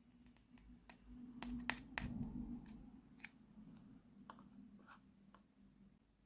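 Small hard plastic toy pieces being handled, giving a string of light clicks and taps that are busiest about a second to three seconds in, over a faint low hum.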